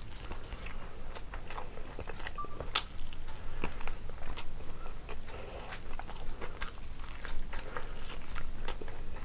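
A person chewing and biting food close to the microphone, with many scattered sharp clicks of mouth noises.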